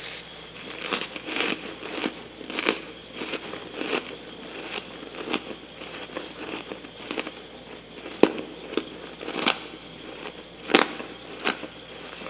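Chewing freezer frost: irregular crisp crunches and crackles, with two sharper crunches at about eight and eleven seconds in.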